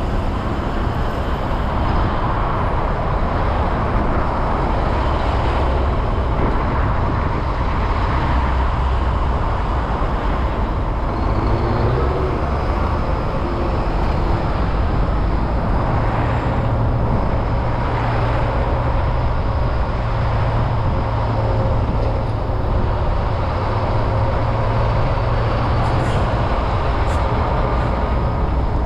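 Steady road-traffic noise: a continuous rumble of motor vehicles driving along the road.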